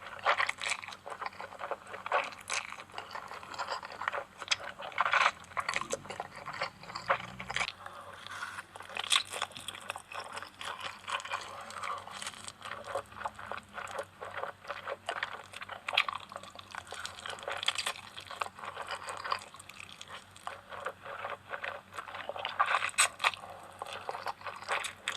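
Noodles being eaten: wet chewing with a steady run of irregular smacking clicks.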